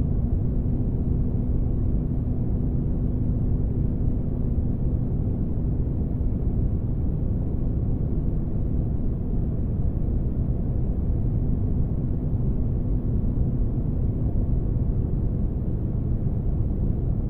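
Spaceship interior ambience: a steady deep rumble like an engine room, with a low hum that fades out about seven seconds in and returns near twelve seconds.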